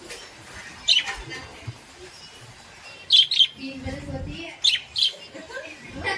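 Small pet parrots giving short, sharp chirps, about five in all, the later ones coming in quick pairs.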